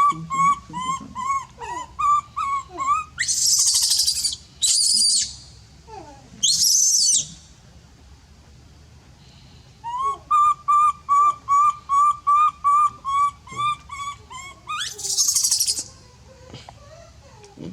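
A baby monkey calling in short, high, repeated squeals, about three a second. The calls stop for a few seconds in the middle, and there are several loud, harsh noisy bursts among them.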